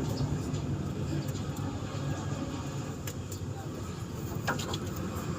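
A motor vehicle engine running steadily, with a few light clicks and taps about three and four and a half seconds in.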